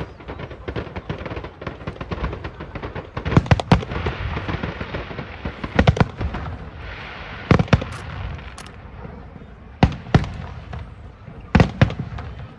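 Aerial fireworks display: a steady crackle of bursting shells with loud sharp bangs every second or two.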